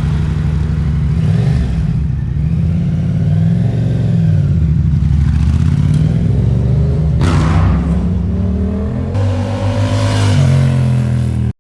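A vehicle engine running steadily, then revving up, with the pitch rising about two-thirds of the way in and again near the end.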